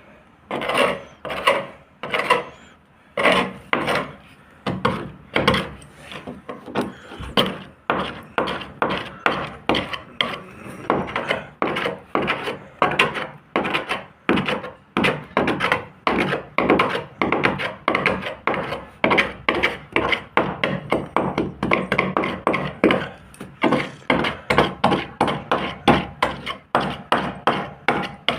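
Hand sanding of a fibreglass boat hull: back-and-forth rasping strokes, slow at first, then quicker at about two a second from about ten seconds in.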